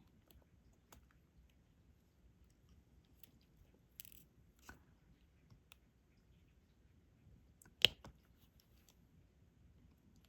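Light, scattered clicks and taps of a diamond painting stylus picking up resin drills and pressing them onto the sticky canvas, with one sharper click about eight seconds in.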